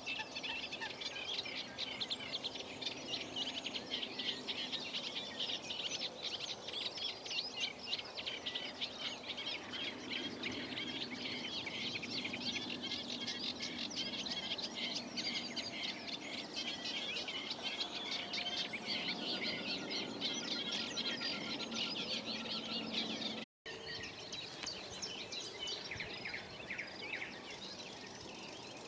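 Dense chorus of many birds at ponds, rapid overlapping chirps and song, with a faint low hum beneath. The sound cuts out completely for a moment about three quarters of the way through.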